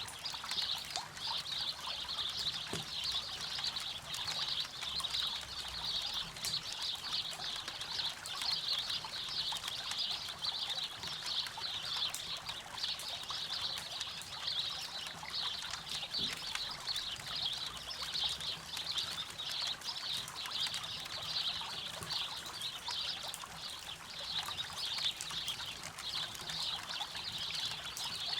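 A river running and trickling steadily, with a campfire crackling faintly now and then.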